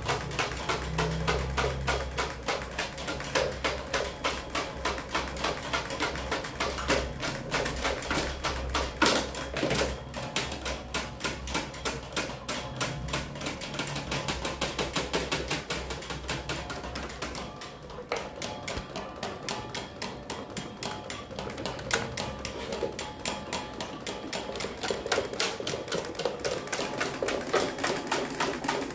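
Electric fan running with a fast, continuous clattering tick over a low motor hum. The hum and loudness drop about two-thirds of the way through.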